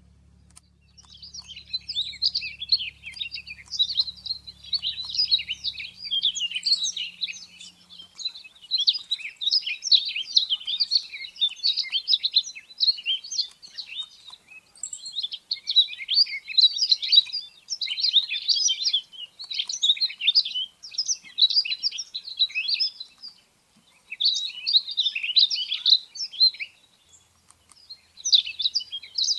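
Rustic bunting song from a field-guide recording: quick, bright warbling phrases run on almost without break, with a few brief pauses.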